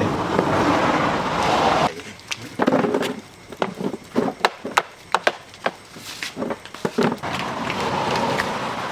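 A run of sharp, irregular knocks and clacks lasting several seconds, set between stretches of steady street noise.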